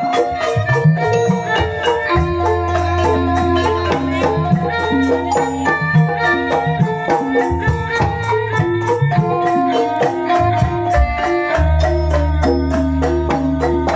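Calung Banyumasan ensemble playing: bamboo xylophones struck in quick, even, interlocking patterns over deep held bass notes.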